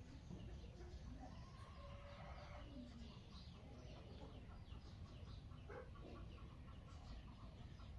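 Faint early-morning outdoor ambience: many small birds chirping, with some lower, longer bird calls, over a low steady rumble of wind.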